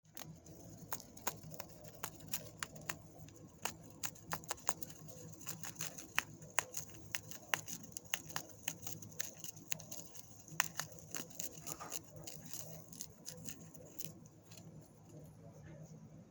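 Rapid, irregular small clicks and crackles from a young bird preening its new feathers, thinning out near the end.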